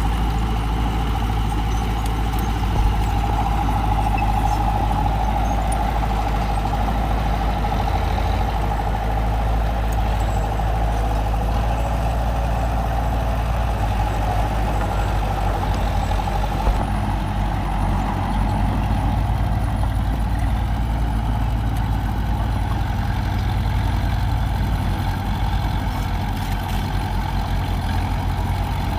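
Diesel engine of a small crawler bulldozer running steadily, a low drone with a steady whine above it.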